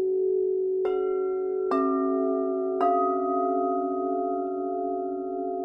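Singing bowls struck three times in about two seconds, each strike adding a new ringing tone over bowls still sounding, so that the tones build up and hang together; the low tone wavers slowly as it rings.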